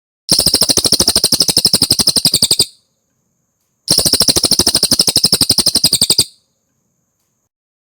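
Cililin bird song: two fast trills of about two and a half seconds each, roughly thirteen notes a second, a bit over a second apart.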